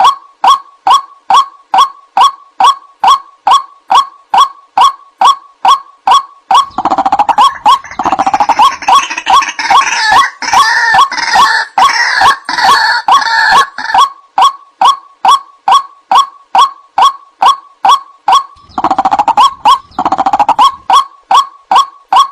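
White-breasted waterhen (ruak-ruak) giving its monotonous repeated 'wak' call, about two or three calls a second. From about a third of the way in, a busier layer of overlapping calls joins for several seconds, and it returns briefly near the end.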